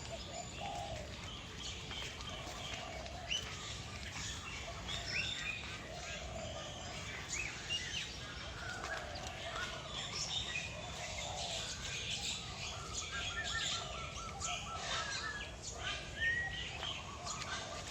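Many caged birds chirping and calling together, overlapping short chirps and quick rising whistles over a steady background hum, with a rapid trill of repeated notes about two-thirds of the way through.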